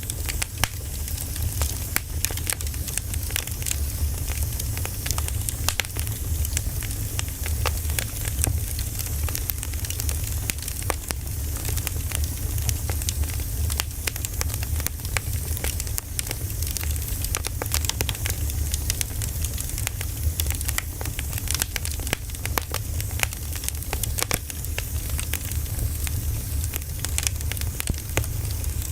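Wood fire burning: constant crackling and popping of burning firewood over a low rumble and hiss.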